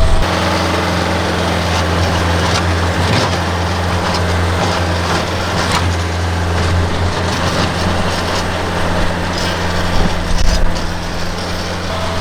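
Tractor engine running steadily under load, with a few short knocks and scrapes from the loader working dirt, rock and concrete.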